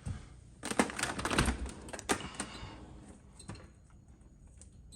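A dishwasher being opened: a run of clicks and clatters lasting about two seconds, then a few lighter clicks.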